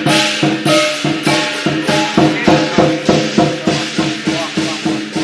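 Lion dance percussion band: drum, cymbals and gong beating a steady rhythm of about three to four strikes a second, with ringing between the strikes.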